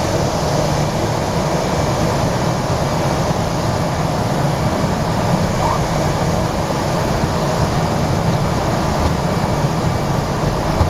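Steady engine and propeller noise of a propeller airplane heard from inside the cabin during landing, a constant low drone with a hiss over it.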